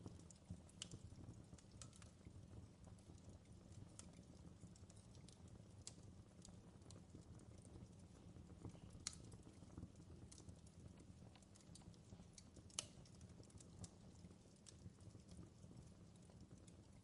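Campfire crackling faintly: irregular sharp pops and snaps over a low steady rumble, with two louder snaps about nine and thirteen seconds in.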